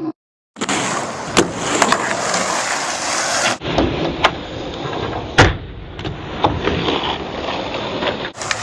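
Skateboard wheels rolling on rough pavement with several sharp clacks of the board, the loudest about five seconds in. The sound drops out briefly at the start and changes abruptly about three and a half seconds in, at edit cuts.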